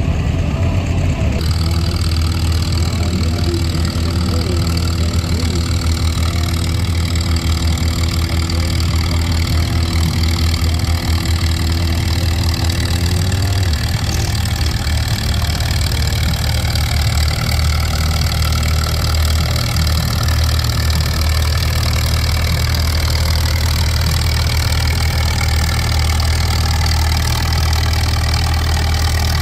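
Antique farm tractor engine running steadily. A higher steady engine tone bends up slightly and stops about halfway through.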